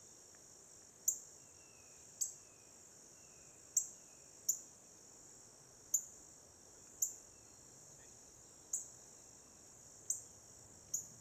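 A high, steady insect-like trill with a sharp chirp about once a second, and a few faint short whistles in the background.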